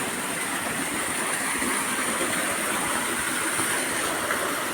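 Steady rush of a nearby waterfall, an even hiss of falling water, with a thin steady high-pitched tone above it.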